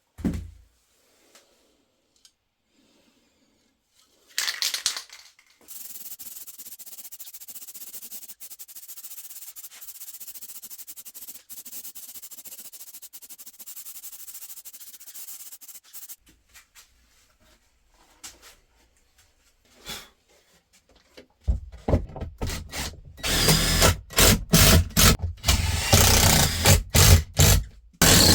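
Workshop tool sounds on wood. A steady high rasping hiss lasts about ten seconds, then a run of loud, uneven scraping strokes fills the last several seconds.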